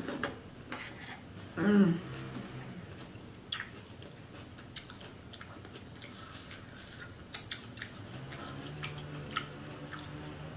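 Close-miked chewing of seafood boil, with scattered wet mouth clicks and smacks. There is a short hum about two seconds in, and a low steady hum from about three-quarters of the way through.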